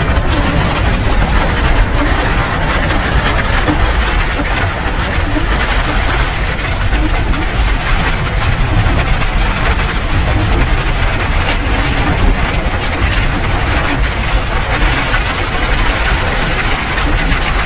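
Steady rain: an even hiss with a deep low rumble underneath.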